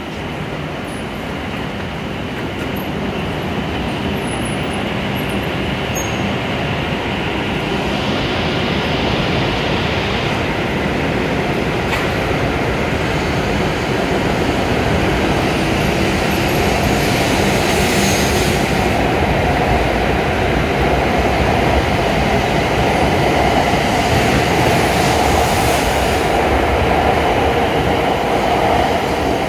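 W7 series Hokuriku Shinkansen train pulling out of the station, its running noise building steadily louder as it gathers speed past the platform, with a hum swelling in the second half.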